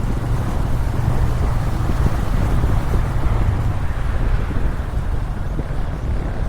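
Motorcycle engine running steadily while riding, a low drone under wind noise on the microphone.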